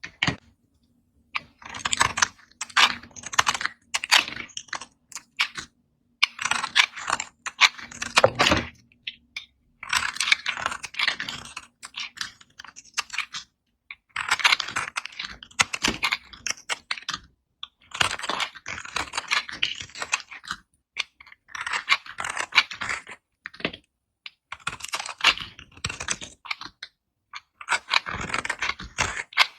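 Knife cutting through dry colored soap: crisp, crackly scraping strokes in runs of one to three seconds, separated by short pauses.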